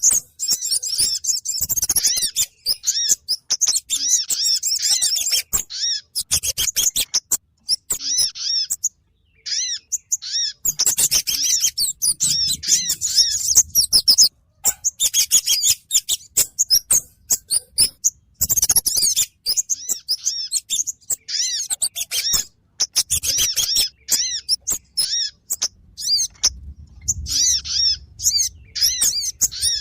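Recorded lure calls of kemade and sogon birds, used to draw them in for trapping: rapid high-pitched chirping in bursts a few seconds long, with short silent gaps between them.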